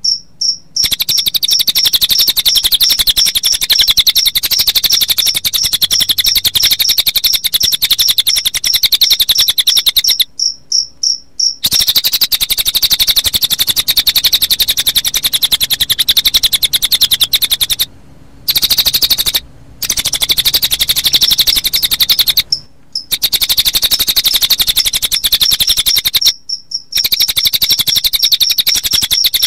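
Recorded cililin bird song mixed with cricket chirping, used as a masteran track for training songbirds: a continuous, very rapid high-pitched trill over an even cricket pulse, broken by short pauses about a third of the way in and several times in the second half.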